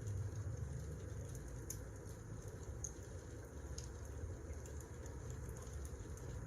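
Wood fire burning: irregular sharp crackles and pops over a low steady rumble.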